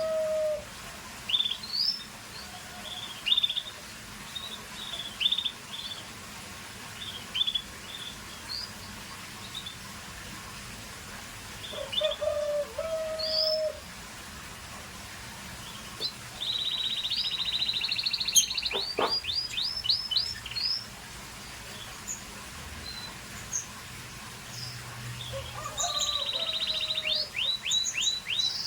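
Scotch Fancy canary singing: scattered short chirps and a few lower whistled notes, with a louder rapid trill about halfway through and another near the end.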